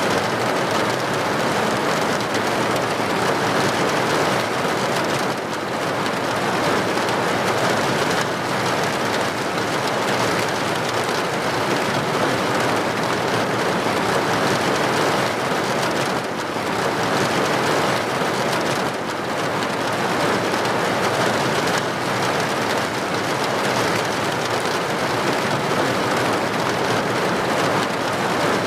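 Steady rain, an even hiss that carries on without a break.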